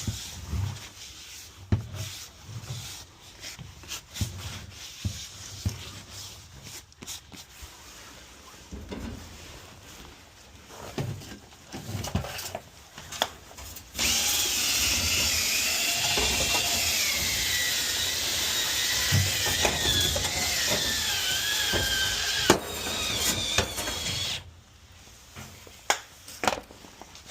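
A power drill spinning a rotary dryer-vent cleaning brush in the duct. It starts about halfway through and runs steadily for about ten seconds with a whine that slowly drops in pitch, then stops abruptly. Before it come scattered knocks and rubbing.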